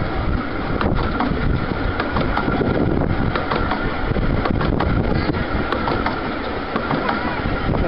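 15-inch gauge passenger train running, heard from an open carriage window: a steady rumble of the coaches on the track with scattered clicks.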